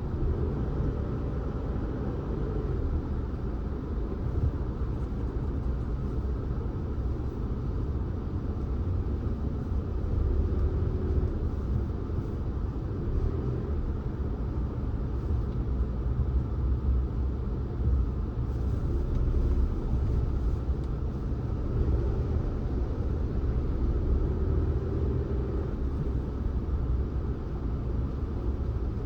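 Steady low rumble of a car being driven: engine and tyre road noise, with faint brief rises and falls in engine pitch every few seconds.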